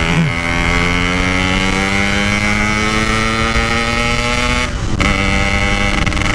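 Yamaha RX-King single-cylinder two-stroke motorcycle under way, its engine note rising steadily as it accelerates, through a standard-look packed exhaust. Near the fifth second the note briefly cuts out and comes back lower, as at a gear change.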